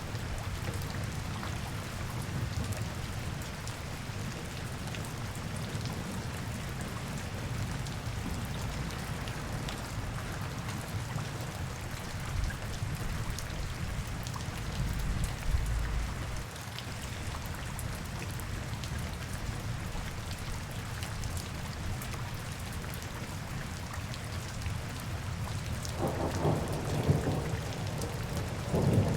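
Rain falling steadily, an even hiss with scattered drop ticks over a continuous low rumble. A deeper rumble swells briefly about halfway through, and a louder rumble builds near the end.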